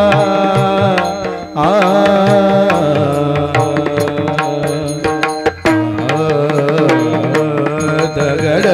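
Marathi bhajan music: a held, sustained melody over hand-drum strokes, with brief breaks about a second and a half in and again near the middle.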